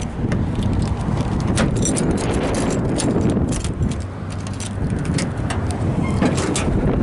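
Wind rumbling on the microphone, with a string of sharp clicks and knocks from handling.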